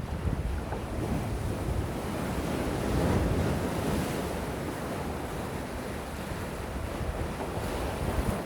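Gentle sea waves washing in, one swelling up about three seconds in and slowly fading, with a low rumble of wind on the microphone.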